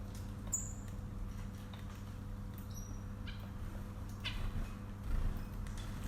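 Pet birds giving a few short, high chirps over a steady low electrical hum, with a dull low bump about five seconds in.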